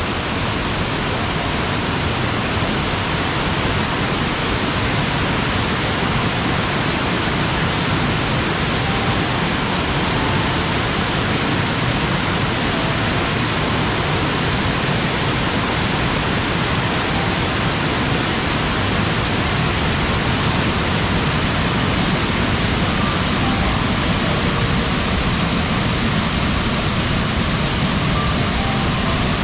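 Mamon Falls waterfall: water pouring and splashing in one steady, unbroken rush.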